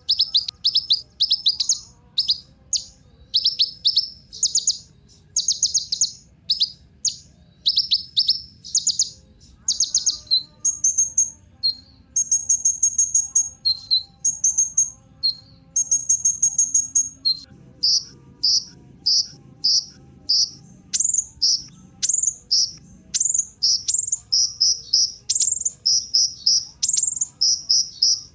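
Kolibri ninja sunbird singing: fast bursts of sharp, high-pitched chirping notes, with short trilled phrases partway through.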